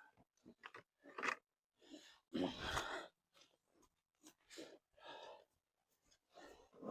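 Irregular crunching and rustling steps of a person wading through marsh grass and mud, each burst about half a second long with short quiet gaps between.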